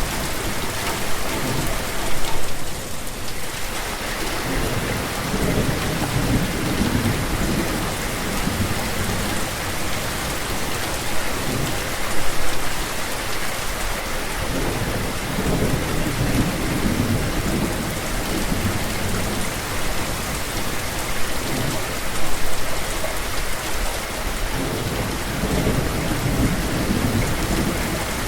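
Steady heavy rain falling, with low thunder rumbling in slow swells several times.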